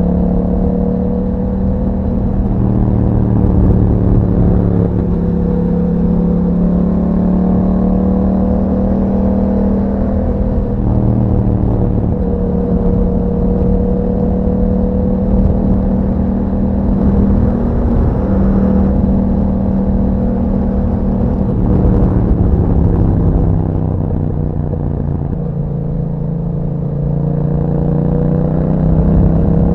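2021 Yamaha MT-07's parallel-twin engine running through an Akrapovic exhaust while riding, holding fairly steady revs with small rises and falls. The revs drop off about three-quarters of the way through, then climb again near the end.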